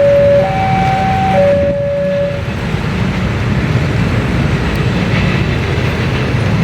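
Steady low rumble of a train running, with a two-note high-low tone alternating about once a second that stops about two and a half seconds in.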